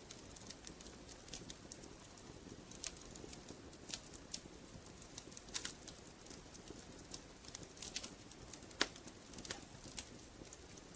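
Fireplace fire crackling: irregular sharp pops and snaps over a soft steady low hiss, with one louder pop a little before the end.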